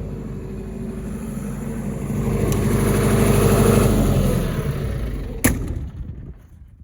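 SDMO J66 60 kVA generator's John Deere diesel engine running steadily, then shut down. Its pitch falls about four seconds in and it runs down to a stop, with a sharp clack about five and a half seconds in.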